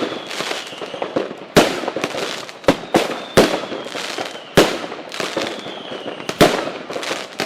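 Fireworks going off: a string of sharp bangs, one every second or so, each trailing a crackle, with faint whistles that fall in pitch between them.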